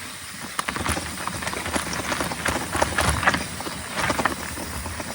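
Mountain bike clattering and rattling over bumpy ground, with irregular knocks and clicks as the wheels hit bumps.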